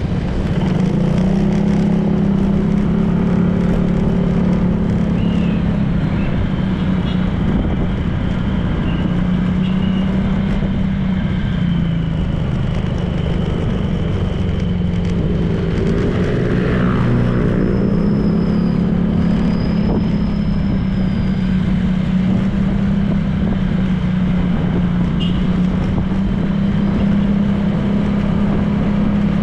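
Honda PCX 160 scooter's single-cylinder engine running at a steady cruise, with wind and road noise. About halfway through, a passing vehicle briefly swells and fades over it.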